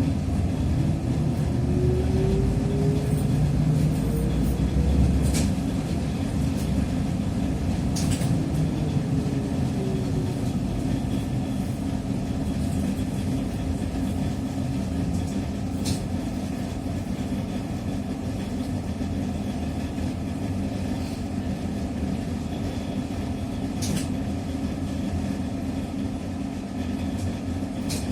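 Cabin sound of a TrolZa-5275.05 Optima trolleybus under way: a whine from the DK-213A motor and Ishimbay rear axle rises in pitch as it accelerates over the first few seconds, and a fainter falling whine follows around ten seconds in. Then it runs on with a steady rumble and occasional sharp clicks and rattles.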